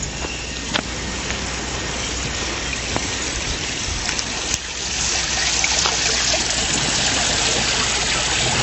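Small river flowing: a steady rush of running water that grows louder about halfway through, with a few light clicks.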